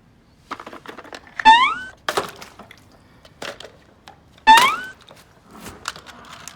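Toys knocking and clicking as they are handled, with a short rising squeaky tone twice, about a second and a half in and again about four and a half seconds in.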